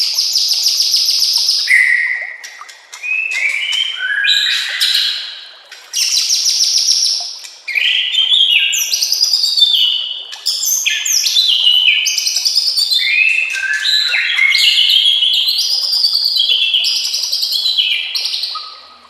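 White-rumped shama (murai batu) singing a loud, varied song stuffed with mixed-in phrases ('full isian'): short whistled notes, rising sweeps and rapid trills, one phrase after another with brief pauses.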